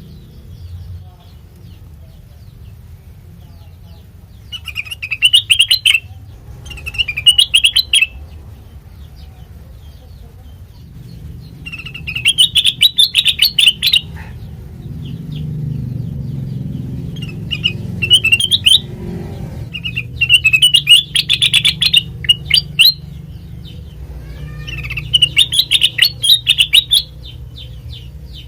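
Kutilang mas (a bulbul) singing: about six loud phrases of rapid chirping notes, each one to two seconds long, with short pauses between them. A steady low hum runs underneath.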